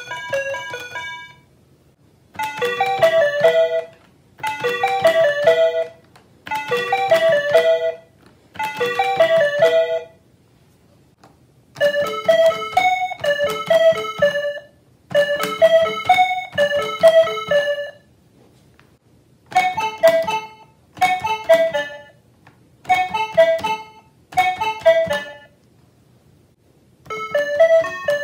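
Musical calculators beeping out a Japanese railway station melody, one note per key press. A short jingle repeats four times with brief pauses, then a longer phrase and a run of short phrases follow.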